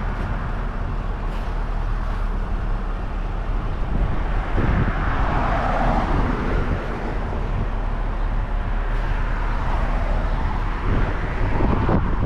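Semi-truck driving: a steady low engine rumble with road noise, swelling briefly about five seconds in and again near the end.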